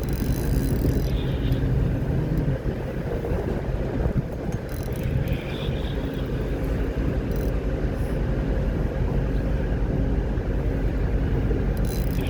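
Boat engine running steadily with a low drone, mixed with wind noise on the microphone.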